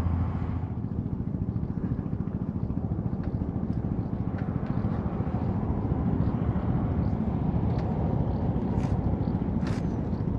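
BMW R1200GS boxer-twin engine running steadily, with a few faint clicks near the end.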